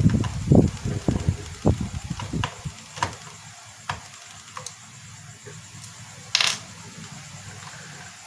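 Small clicks, taps and low knocks of tools and plastic parts being handled while a cooling fan is taken out of an opened projector, with a brief scrape about six seconds in.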